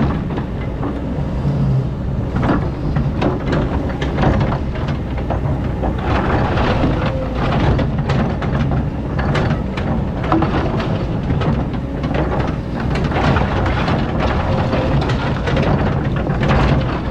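Excavator digging sand: its diesel engine runs steadily, with frequent clanks and scrapes throughout.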